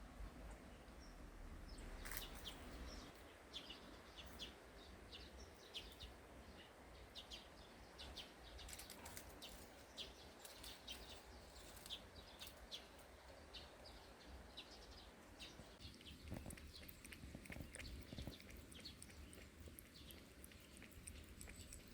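Faint small-bird chirping: many short, irregular chirps, thickest midway.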